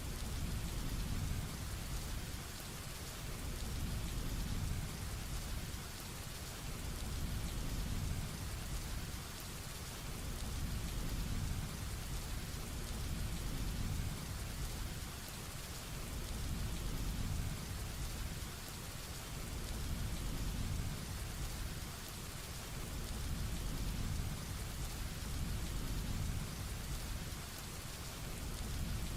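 Heavy rain falling steadily, with a low rumble of thunder that swells and fades every few seconds.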